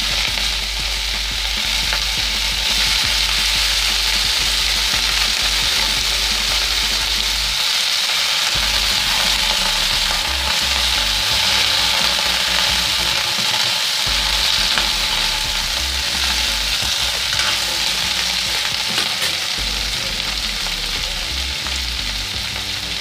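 Freshly washed cauliflower stalks sizzling loudly and steadily in hot mustard oil in a kadhai, the water on them spitting and steaming in the oil.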